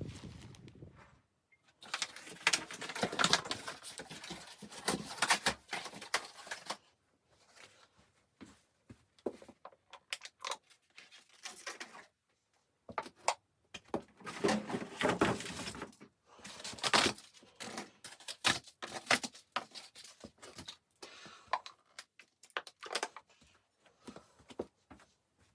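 Bursts of rustling and clicking handling noise, stopping and starting with short pauses between.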